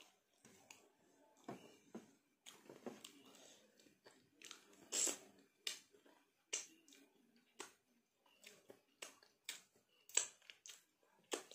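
Close mouth sounds of a person eating with her fingers: chewing, lip smacks and finger-licking in a run of irregular short clicks, loudest about five seconds in and again near ten seconds.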